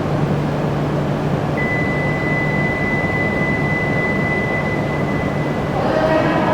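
Steady hum and rumble of an underground Shinkansen platform, with a thin high-pitched tone that comes in about a second and a half in and stops about four seconds later.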